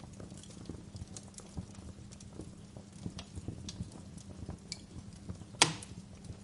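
Wood fire crackling, with irregular small pops and snaps and one loud sharp pop more than halfway through.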